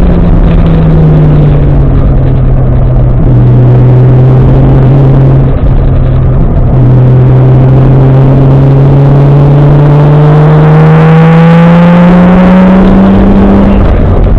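Turbocharged 1JZ-GTE inline-six engine of a Nissan 240SX under way, very loud: its pitch falls at the start, holds steady for several seconds, then climbs steadily as the car accelerates before dropping abruptly near the end. Road and wind noise run underneath.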